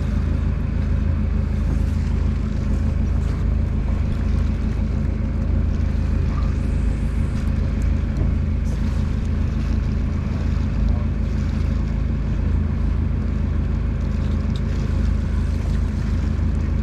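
Small boat's engine running steadily, a constant low hum with no change in pitch.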